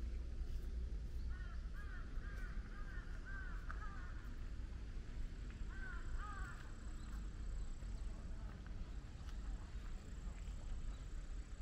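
A bird calling: a quick run of about six short arched calls, then two more a couple of seconds later, over a steady low rumble.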